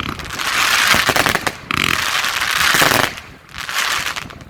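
A 20 mm, 100-shot fan-cake firework battery firing rapid shots with crackling effects, in dense bursts that thin out near the end.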